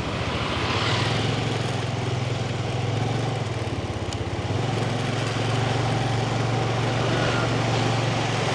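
Yamaha 125 cc motorbike engine running steadily, heard from the rider's seat, over street traffic noise; its pitch shifts slightly about four and a half seconds in.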